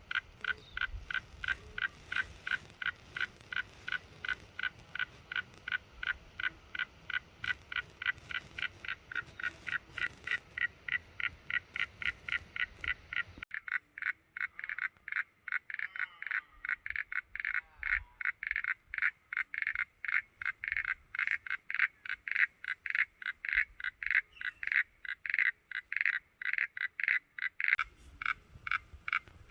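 An animal calling in a steady, rhythmic series of short calls, about three a second. The faint background noise under it cuts out abruptly about halfway through and comes back near the end.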